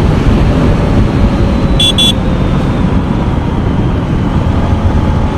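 Yamaha MT-15's 155 cc single-cylinder engine running steadily under way, with heavy wind rumble on the rider's microphone. A brief high-pitched double beep sounds about two seconds in.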